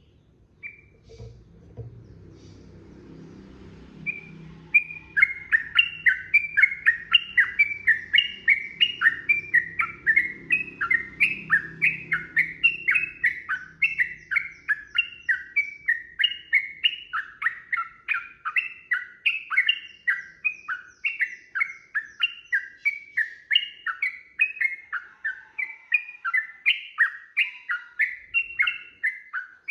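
Yellow-vented bulbul (trucukan) singing a long unbroken run of quick, repeated chirping phrases at about three notes a second. The run begins about four seconds in. This is the long 'ropel' song that keepers play to train caged birds.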